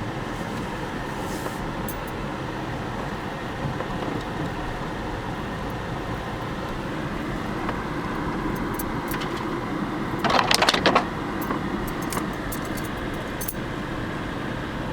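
A car's engine and tyres rumbling steadily inside the cabin as it creeps over an ice-covered road, with scattered small clicks and rattles. About ten seconds in, a loud burst of crackling lasts about a second.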